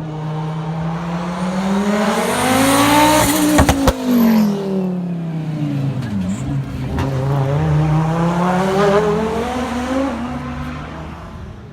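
Audi S1 rally car's turbocharged five-cylinder engine under hard acceleration, its pitch climbing to a peak about three and a half seconds in, with a quick cluster of sharp cracks at the peak, then falling away. The note then climbs and falls once more.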